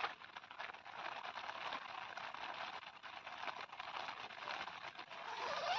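Steady rain falling: an even hiss crowded with small ticks of drops.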